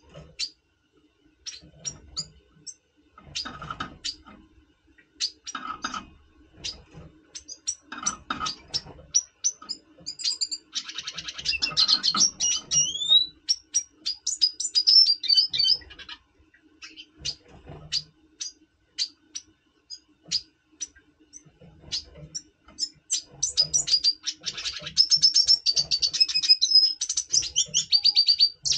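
Red siskins calling and singing in breeding condition: scattered short, high chirps, with fast twittering song about ten seconds in and again near the end.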